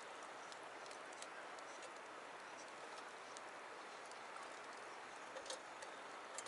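Wood campfire crackling: scattered sharp pops and snaps, a small cluster of them near the end, over a steady background hiss.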